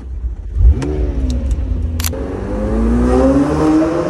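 McLaren 720S Spider's twin-turbo V8 starting with a sharp flare of revs that rises and falls, about half a second in. Then, from about two seconds in, an engine note that climbs steadily in pitch as it revs. A few sharp clicks sound over the first two seconds.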